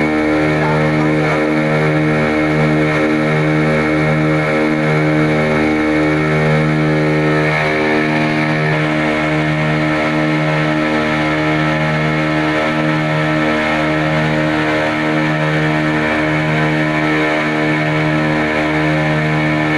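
Passenger boat's engine running steadily under way, an even, unbroken drone.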